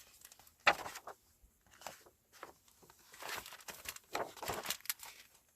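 Rustling and scraping handling noises, a loud scrape about a second in and a run of them near the end.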